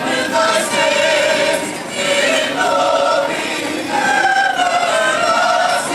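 Singing by more than one voice, holding long notes that step up and down in pitch.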